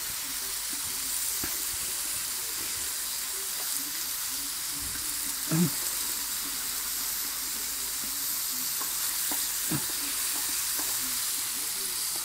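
Beefburgers, banana slices and pineapple rings sizzling steadily in a frying pan, with a spatula moving the food and a couple of short knocks against the pan about halfway through and again near the end.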